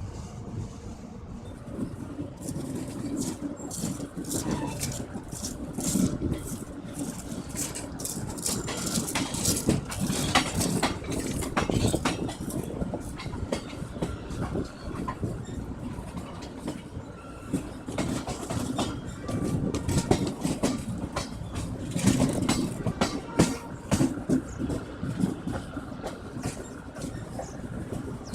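Express train running, heard from on board: a steady low rumble from the coach with wheels clicking and knocking irregularly over rail joints, in thicker clusters twice.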